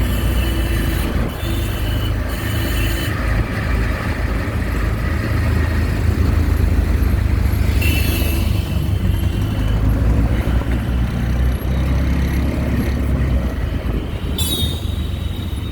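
Ride in a moving auto-rickshaw: steady low engine and road rumble, with street traffic around it and short horn blasts now and then, one about halfway and a wavering one near the end.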